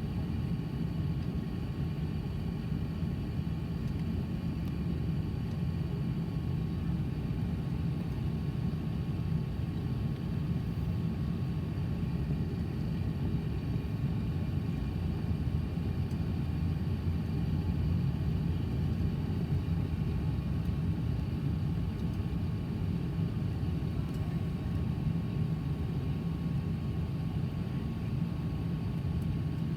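Airbus A380 Rolls-Royce Trent 900 engines running steadily, heard from inside the passenger cabin: an even low rumble with a faint steady whine above it.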